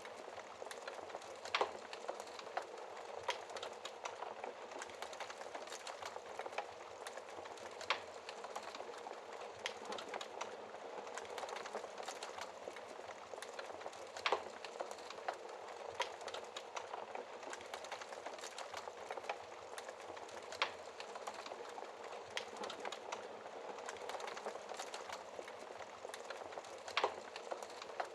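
Wood logs burning in a fireplace: a steady hiss and flutter of fire with constant small crackles and scattered sharp pops, the loudest coming about every six seconds.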